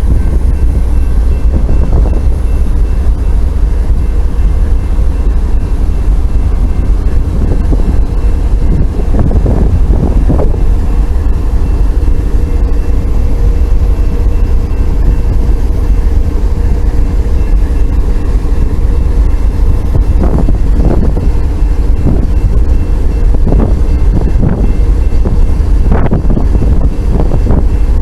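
Diesel locomotives of a stopped freight train running, under a heavy steady rumble of wind on the microphone, with a few short knocks in the second half.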